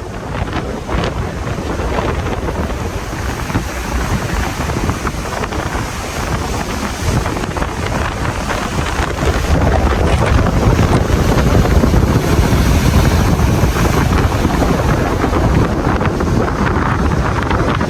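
Strong wind buffeting the microphone over the rush of a rough sea, getting louder about halfway through.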